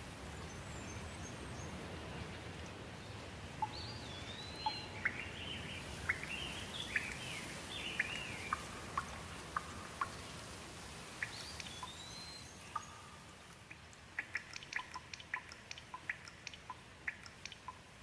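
Birds chirping and calling, short whistled notes that rise and fall, over a steady hiss of running water. The hiss eases a little about two-thirds of the way through, and a quick run of short, sharp clicks follows.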